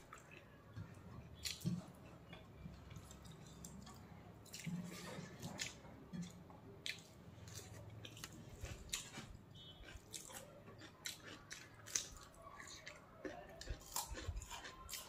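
A person chewing food with many small, wet mouth clicks and smacks, faint and irregular.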